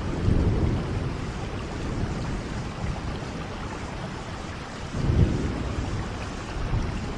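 Steady rain, with low rumbles of thunder that swell about half a second in and again about five seconds in.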